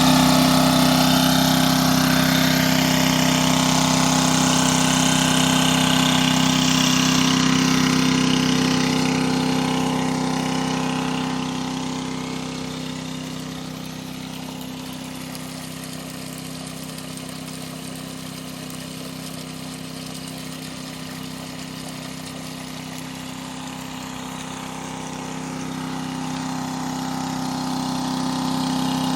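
Engine-driven water pump on a boat running steadily, with a rushing hiss of pumped water over the engine's hum; the rushing fades in the middle and comes back up near the end.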